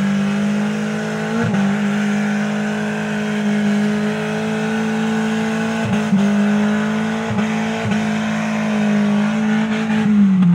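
Suzuki Jimny engine held at high revs under heavy load as the 4x4 claws through an off-road mud and dirt section. The pitch stays steady with a few brief dips, then drops as the revs come off near the end.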